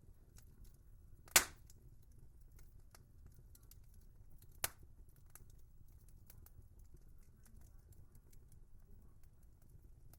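Wood fire crackling: a low rumble of burning with scattered small crackles, and two sharp pops, a loud one about a second in and a smaller one a few seconds later.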